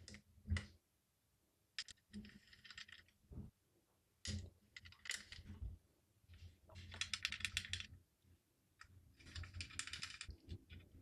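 Faint clicks and short runs of rapid metallic ticking and rattling from small metal standoff screws being handled and threaded in for an AIO liquid cooler's CPU mount.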